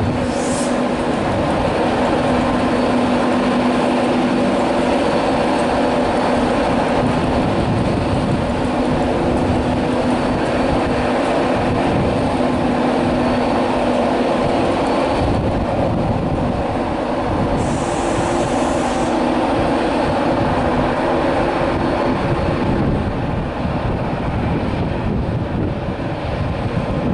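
Class 91 electric locomotive and its coaches pulling out of a station, with a steady hum of traction motors over rumbling wheels on the track. The hum dies away a few seconds before the end. Two short high-pitched sounds come through, one just after the start and one about two-thirds of the way through.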